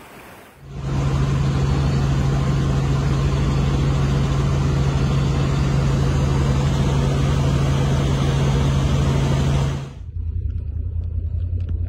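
Steady, loud engine noise: a strong low hum under a hiss. It starts abruptly just under a second in, cuts off about ten seconds in, and gives way to a deeper rumble with faint clicks.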